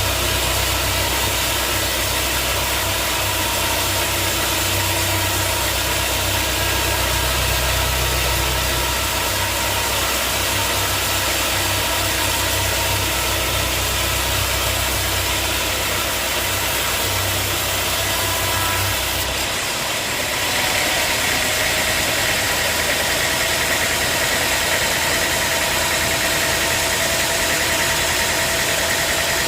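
Sawmill engine and saw running steadily with a constant mechanical hum. About twenty seconds in the sound changes abruptly: the deep rumble drops away and a higher steady tone takes over.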